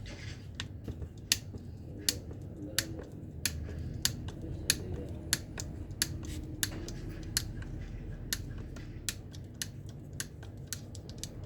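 Irregular sharp clicks and taps, about two a second, from hand tools working on a Makita GA9020 angle grinder as it is taken apart, over a steady low hum.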